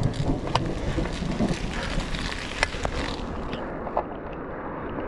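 Heavy rain and wind buffeting the microphone while riding a bicycle through a downpour, with scattered sharp ticks.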